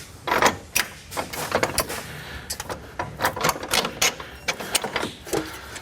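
Irregular metal clicks and knocks of tools and suspension hardware being handled as a control arm and its bolts are worked into place.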